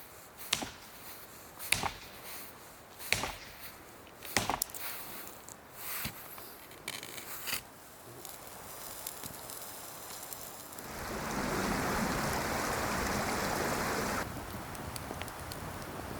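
A series of sharp knocks, about one every second or so, then a steady rushing noise for about three seconds that stops abruptly.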